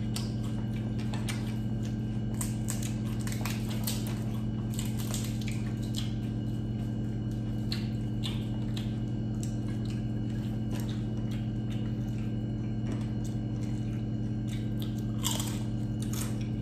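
Close-up chewing and crunching of crispy deep-fried chicken skin and bagnet: scattered crisp crackles as the pieces are bitten and chewed, over a steady low hum.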